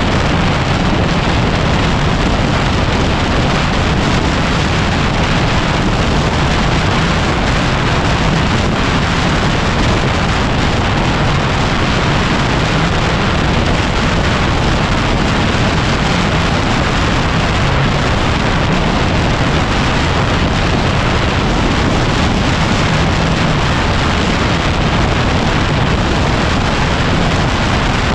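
Heavy wind buffeting on the microphone of a moving trail motorcycle, a steady loud rushing noise, with the Yamaha WR250R's single-cylinder engine running low underneath.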